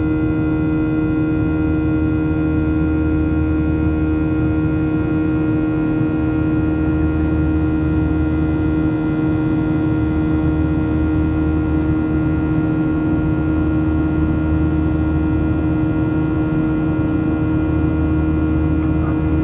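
Boeing 737-800 cabin drone in flight: the CFM56-7B turbofans run at a steady climb or cruise setting, a constant rumble under one strong steady hum and fainter steady tones above it.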